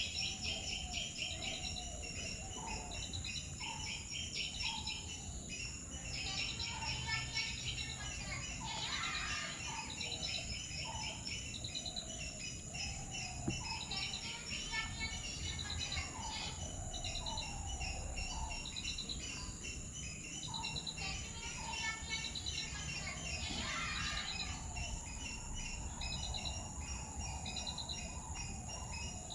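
Several birds chirping and calling, with repeated rapid trills, over a steady high-pitched insect drone.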